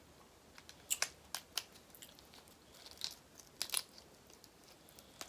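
Close-miked eating of seafood: a run of sharp crunches and crackles, about a second in through about four seconds, as shell and flesh are bitten and broken.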